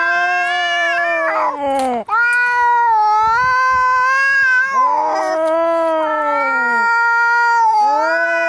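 Angry domestic cat caterwauling: a run of long, drawn-out howls, each two to three seconds long, rising and then sliding down in pitch, breaking off and starting again, with short rough patches between them.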